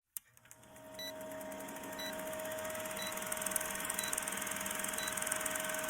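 A short, high electronic beep repeating about once a second over a steady hum and hiss, which swells up within the first second.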